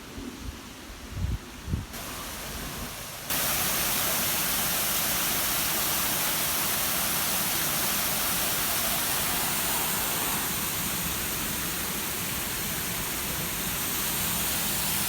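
Waterfall rushing: a steady, loud, even rush of falling water that comes in abruptly about three seconds in. Before it, a few low thumps.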